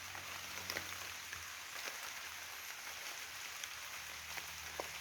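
Light rain and dripping water: a soft, even hiss with a few scattered drips.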